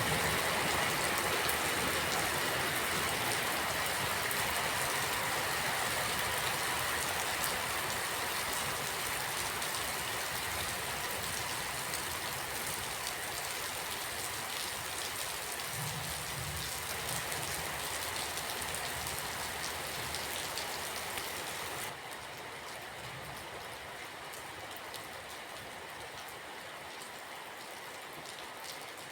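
Steady rain falling, an even hiss of many drops that slowly grows quieter and drops to a softer level about two-thirds of the way through.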